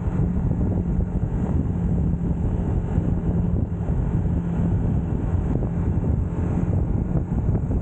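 UM Scrambler X motorcycle engine running at a steady speed while riding, its pitch holding even, with wind rushing over the microphone.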